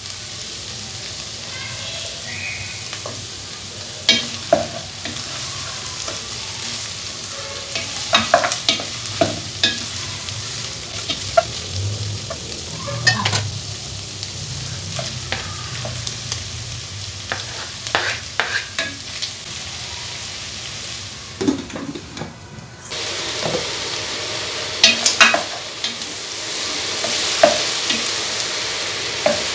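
Beef pieces frying and sizzling in a pot, stirred with a wooden spoon that scrapes and knocks against the pot many times. After a short dip about three-quarters through, the sizzling is louder.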